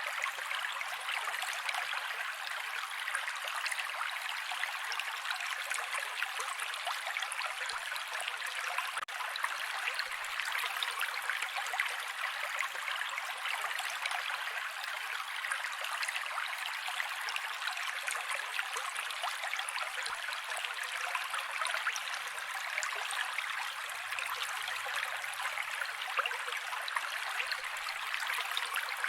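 Mountain creek water flowing steadily, a continuous rushing and trickling with no deep rumble.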